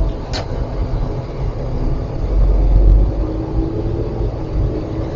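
Car engine and road rumble heard from inside the cabin while driving, a heavy low rumble that swells and eases, with a faint steady engine hum above it. A single short click comes about a third of a second in.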